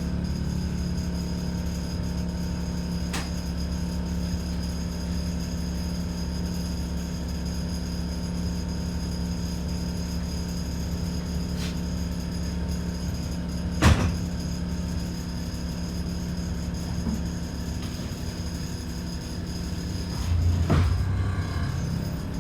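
ADL Enviro 400 double-decker bus engine running steadily, with a constant low hum and a faint high whine. A sharp knock comes about 14 seconds in, along with a few fainter clicks. Near the end the engine note swells.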